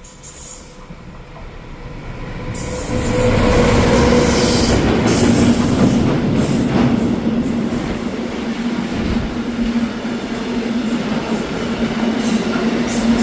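A freight train of tank wagons hauled by the class 248 locomotive 248 046 approaches and passes close by. Its sound swells over the first three seconds into a loud, steady rolling rumble, with a continuous low humming tone and scattered wheel clacks and squeals.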